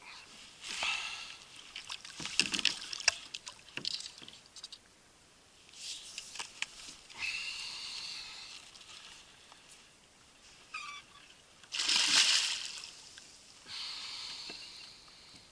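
Water splashing and sloshing at a kayak in irregular surges, with a few sharp knocks a couple of seconds in and the loudest splash about twelve seconds in.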